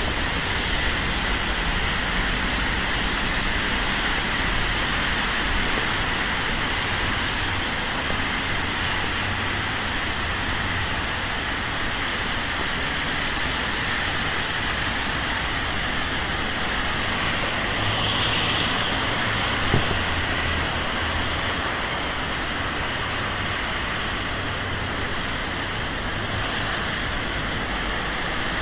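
Steady rain with city road traffic hissing by on wet streets. A single short tap about twenty seconds in.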